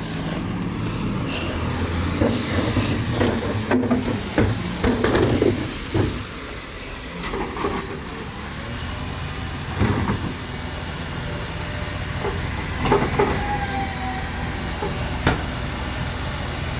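Automated-arm side-loading garbage truck with its engine running steadily, and bursts of knocks and clanks at several points as the arm lifts and tips wheelie bins.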